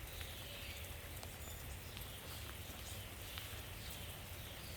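Faint outdoor ambience: a bird repeats a short falling call about once a second, with scattered light ticks and a low steady rumble underneath.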